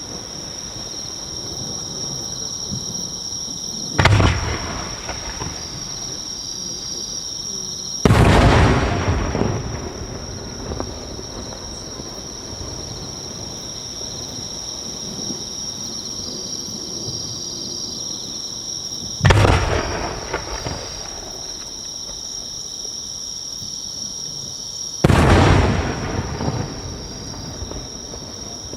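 Four booms from No. 5 (about 15 cm) Japanese aerial firework shells bursting, spaced several seconds apart, each rolling off in a rumbling echo.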